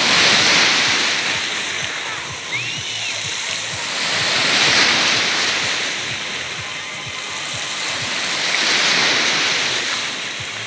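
Sea surf breaking on the beach and washing back, the hiss swelling and fading three times, about every four seconds.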